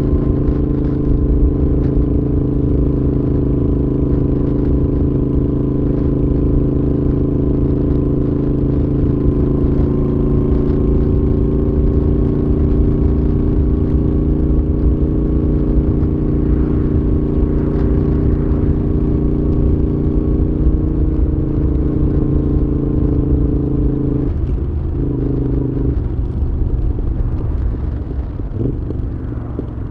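Moto Guzzi V7's air-cooled transverse V-twin running steadily under way through a Mistral aftermarket exhaust, with a low wind rumble on the action camera. About 24 seconds in the engine note breaks off briefly, then it settles lower and grows quieter near the end as the bike eases off.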